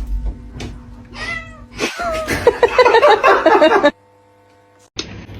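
A cat meowing: a few short calls with gliding pitch, then a louder stretch that cuts off suddenly about four seconds in.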